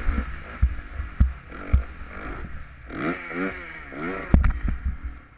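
Motocross bike engine revved in quick throttle blips, its pitch rising and falling, with several sharp low thumps among them.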